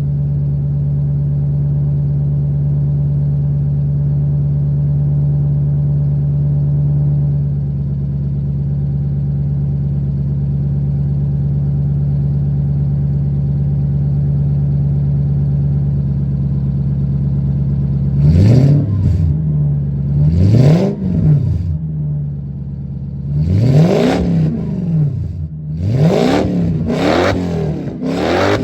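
1993 Lexus LS400's 4.0-litre V8 running through a catless exhaust with gutted catalytic converters, a 2.5-inch Y-pipe and a generic box muffler. It idles steadily, then is blipped about six times in quick succession in the last ten seconds, each rev rising sharply and dropping back to idle.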